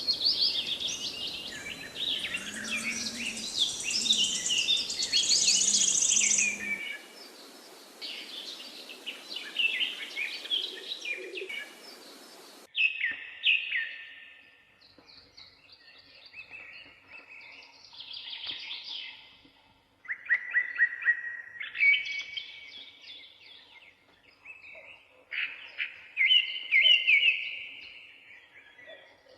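Songbirds chirping and singing. A dense, overlapping chorus over a noisy background cuts off abruptly twice in the first half, and is followed by separate high song phrases coming every couple of seconds over a quiet background.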